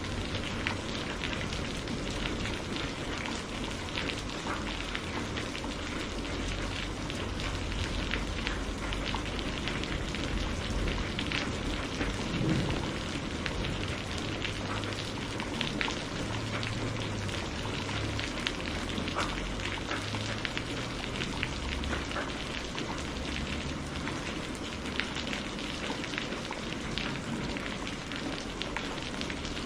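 Steady rain falling, with many individual drops ticking on a surface and a low rumble underneath.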